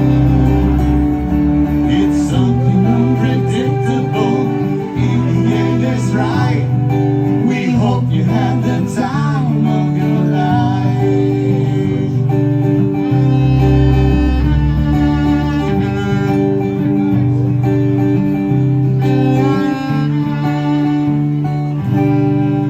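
A live band playing a song led by guitar, with a steady low part under changing chords and some singing.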